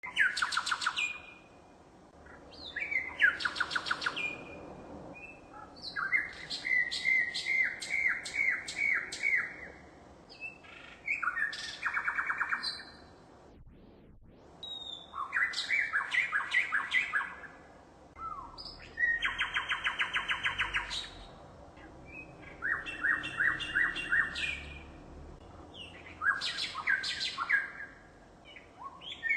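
A songbird singing: short, varied phrases of fast trills and rapidly repeated notes, each a second or two long, with pauses of a couple of seconds between them.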